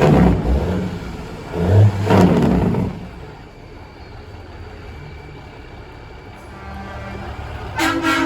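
Kenworth semi-trucks passing: two loud surges of engine and exhaust noise in the first three seconds, then steadier, quieter engine running, and a short air-horn blast near the end.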